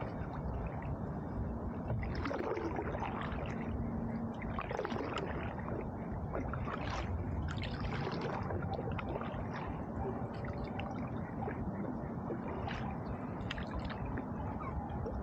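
Canoe paddle strokes in river water: irregular splashes and gurgles as the blade dips and pulls, about one every second or two.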